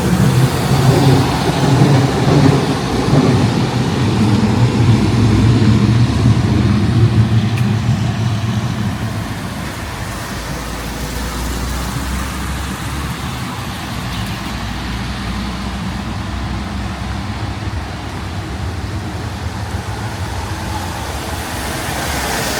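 Street traffic: a motor vehicle's engine hums loudly close by for the first nine seconds or so, then fades into a steady, quieter traffic noise.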